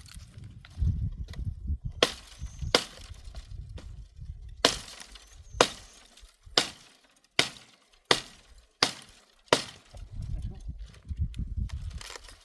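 Dry branches cracking as they are broken up for firewood: about nine sharp snaps coming in a steady run from about two seconds in until near the end, over low rustling.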